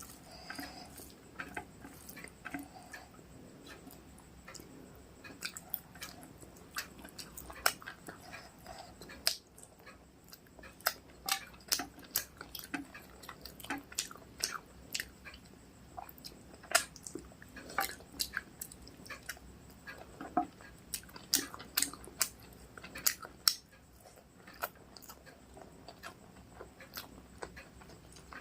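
Close-miked chewing of a mouthful of rice and curry, with wet mouth smacks and clicks coming irregularly, a few a second.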